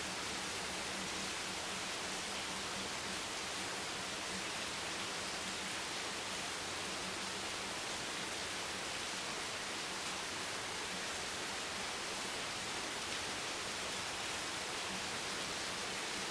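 Steady rain as an even, unchanging hiss.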